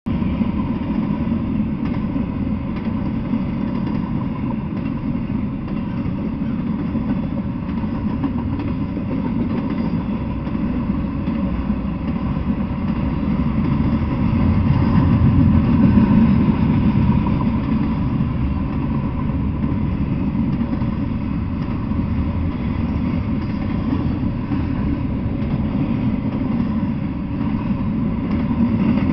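Intermodal freight train rolling past, a steady low rumble of steel wheels on the rails that grows a little louder about halfway through.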